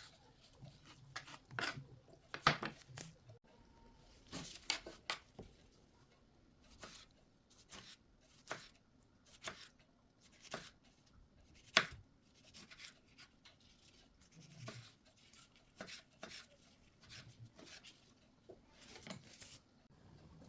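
Scattered light clicks and knocks of kitchen prep work, coming at uneven intervals about once a second, with two sharper knocks standing out.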